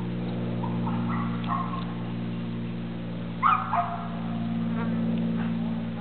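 A dog barking in a couple of short barks, the loudest pair about three and a half seconds in, over a steady low hum.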